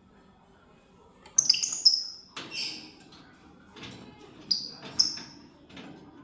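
Lovebirds giving short, sharp, high-pitched chirps in quick clusters, starting about a second and a half in, with a longer call at about two and a half seconds and two more near five seconds.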